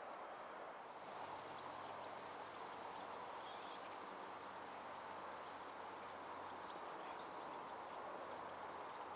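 Faint steady outdoor background noise with a few short, high bird chirps, twice in quick succession about three and a half seconds in and once more near the end.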